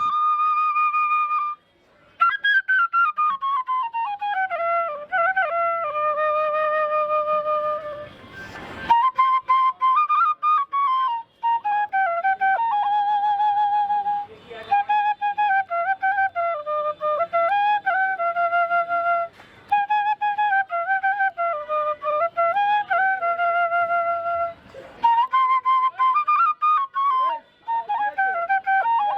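Background music: a solo flute melody with held, wavering notes and gliding falls in pitch.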